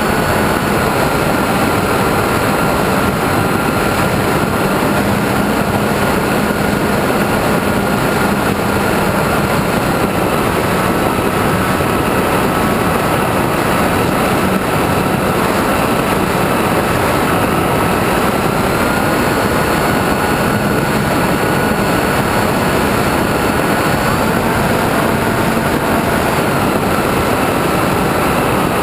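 Radio-controlled airplane's motor and propeller heard from onboard in flight: a steady whine over a rush of air. The pitch drops slightly about ten seconds in and rises back around nineteen seconds.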